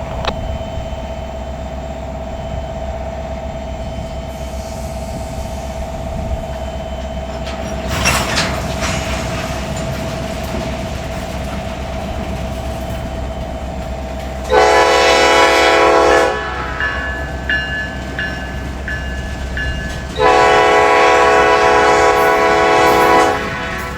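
Diesel locomotive running steadily with a constant hum, a short burst of noise about eight seconds in, then two air-horn blasts past the middle: a shorter one of about two seconds and a longer one of about three seconds near the end.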